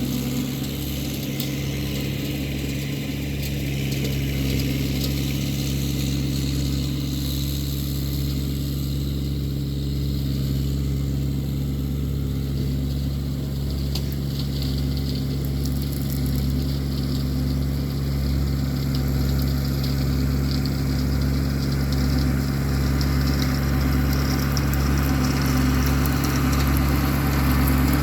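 Massey Ferguson 1725 compact tractor's engine running steadily while it drives a 4-foot brush hog cutting brush, growing a little louder in the second half.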